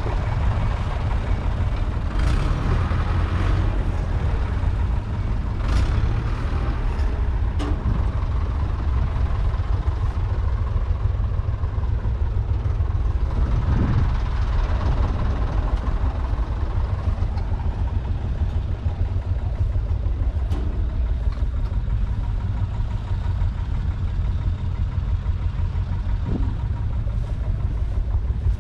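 The 3.1-litre four-cylinder diesel engine of a 1976 UTB Universal 550 Super DTC tractor running steadily, with a deep, even rumble and a few light knocks.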